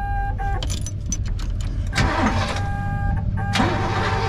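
A 1972 Oldsmobile Cutlass's 350 V8 is started and given gas, with two loud surges of engine noise, about two seconds and three and a half seconds in, over a steady low rumble. The carburetted engine needs throttle to keep running after sitting for a while. An on-off warning buzzer sounds because the key is in the ignition.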